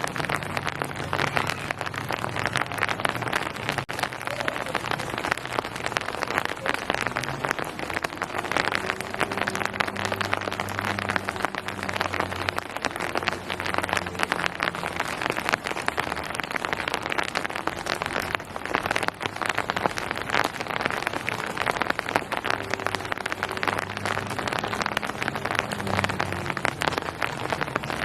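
Steady rain falling on hard surfaces: a dense, even patter of countless drops, with a faint low hum underneath.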